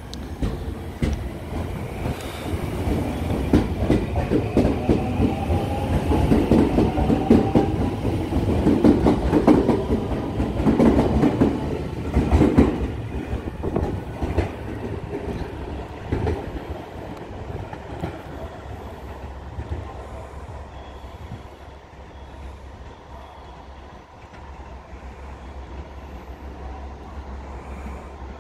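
Ainokaze Toyama Railway 521 series electric train pulling out. Its motor whine rises in pitch over the first few seconds as it accelerates, then the wheels clack over rail joints and points, loudest a few seconds later and fading as the train runs away.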